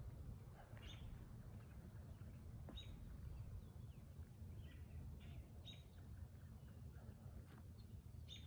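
Quiet outdoor ambience with a bird giving short, high chirps every second or two over a faint low rumble.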